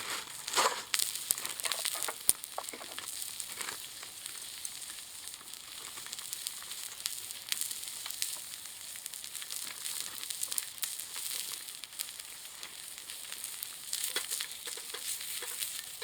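Steady sizzling and crackling from a wood-fired can stove, with frequent sharp pops over a continuous hiss; the loudest pops come in the first couple of seconds.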